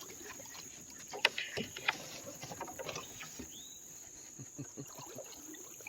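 Canoe being paddled: paddle strokes in the water, with a few sharp knocks a little over a second in, likely the paddle or gear striking the hull. A steady high insect drone runs underneath.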